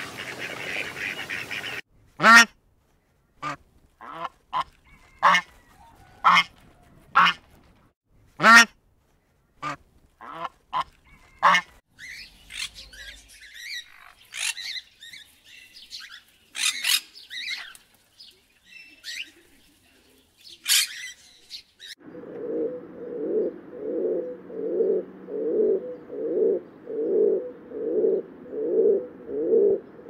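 Bird calls across several short clips: short, sharp honking calls about once a second, then shrill cockatoo screeches, and in the last third a low call repeated steadily, a little over once a second.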